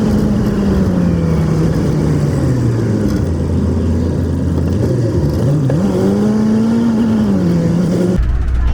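A vehicle engine running, its pitch sinking slowly, dipping about five seconds in and climbing again, like a car slowing and pulling away while driving. The sound cuts off abruptly near the end.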